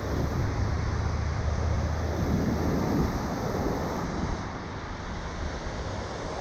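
Strong wind buffeting the microphone with a low rumble, over the steady wash of breaking shorebreak surf.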